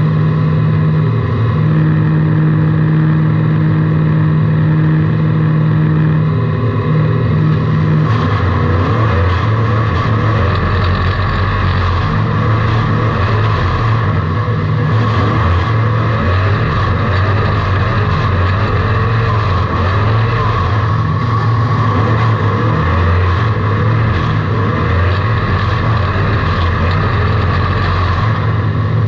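A car engine heard from inside the car, running loud and steady at first. From about eight seconds in it turns lower and rougher, its revs rising and falling under a noisy clatter.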